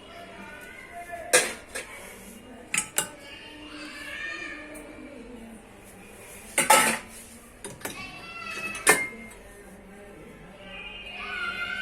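Dishes and cutlery clinking and clattering as they are handled: about eight sharp knocks with short ringing, scattered irregularly, the loudest about seven seconds in.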